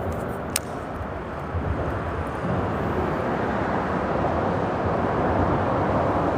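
Steady rumble of freeway traffic crossing the bridge overhead, with one sharp click about half a second in.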